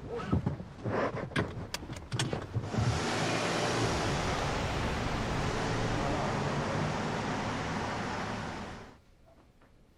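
Car driving: a steady rush of engine and road noise, after a few clicks and knocks in the first couple of seconds, cutting off near the end.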